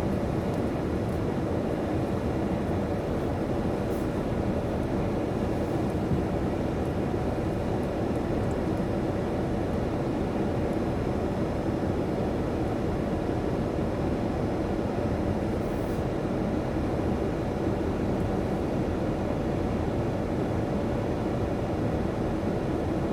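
Steady low rumble of an automatic car wash at work, with a faint steady hum running through it.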